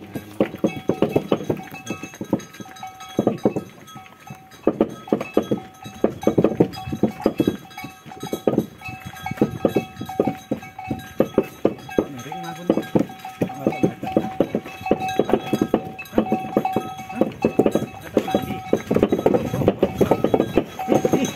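Cowbells on draught oxen pulling a cikar ox cart, clanking and knocking unevenly with a steady ringing tone underneath.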